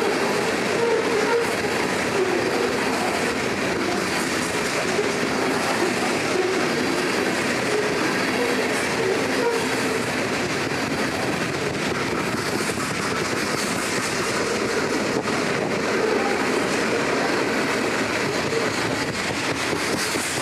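BNSF train cars rolling steadily past, the wheels clicking over the rail joints under a continuous rumble.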